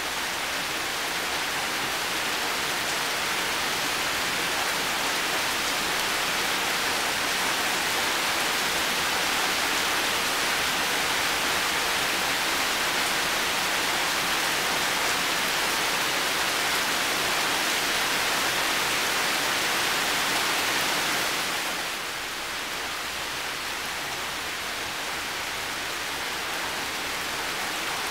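Heavy rain falling steadily, a dense even hiss of countless drops. It eases slightly a little past two-thirds of the way through.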